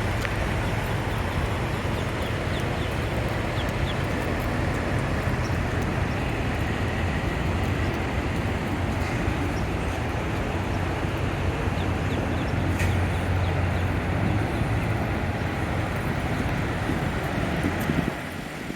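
Steady low rumble of idling truck engines, dropping away abruptly near the end.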